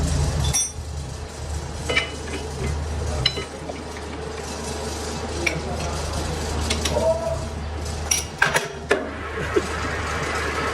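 Steel parts or tools clinking and ringing against each other a few times, with a cluster of strikes near the end, over a steady low machine hum in a metalworking shop.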